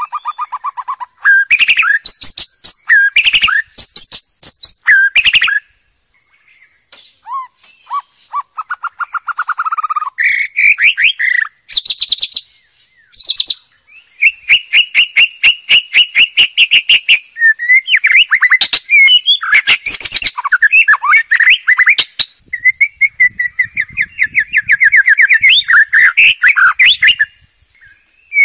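White-rumped shama singing a varied run of loud whistled phrases, pitch glides and harsh chattering notes, with a fast even trill in the middle. The song breaks off briefly about six seconds in and again near the end.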